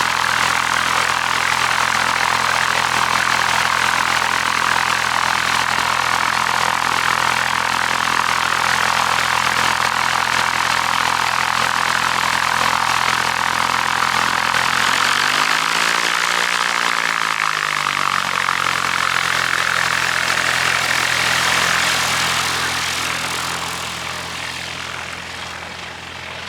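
Small propeller airplane's engine running loud and steady as the plane passes close by, then fading away over the last few seconds.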